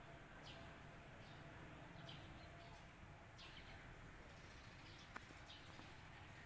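Faint, high bird chirps: short downward-sliding notes, repeated irregularly about once a second, over a low background hiss. A single sharp click a little past five seconds in.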